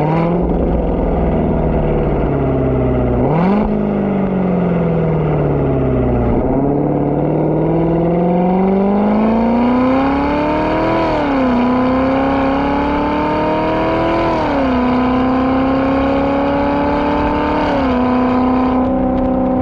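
Chevrolet C7 Corvette Z06's supercharged V8 through a Corsa Extreme axle-back exhaust and X-pipe with no secondary cats. It slows with a falling note and a quick rev jump a few seconds in, then pulls hard through the gears: the pitch climbs steadily and drops sharply at each upshift, three times, before settling to a steady run near the end.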